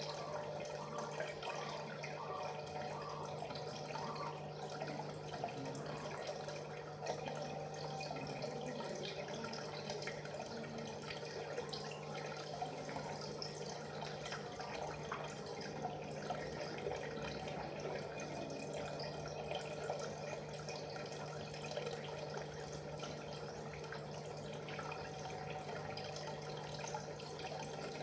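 Water trickling and dripping without a break, over a steady low hum.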